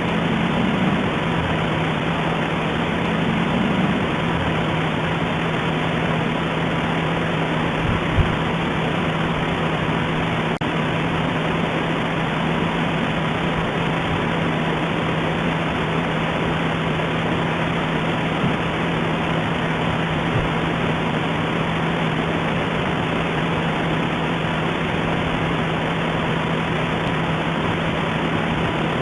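Steady hiss with a constant low hum running under it, unchanging throughout, with a soft thump about eight seconds in.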